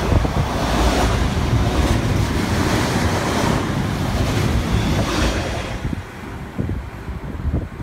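Container freight train running through at speed on the near track: a steady rush and rumble of wagons and wheels on the rail. It dies away about six seconds in as the last wagon clears.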